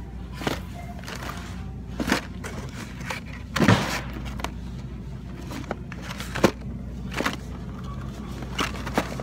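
Plastic blister packs of die-cast toy cars clacking and knocking together as they are picked up and sorted in a store bin, with the loudest clatter a little under four seconds in, over steady store hum and faint background music.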